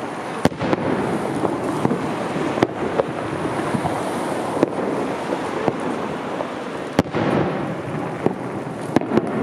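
Fireworks display: several sharp bangs of bursting shells, the loudest about half a second in and about seven seconds in, with smaller crackles over a steady wash of noise.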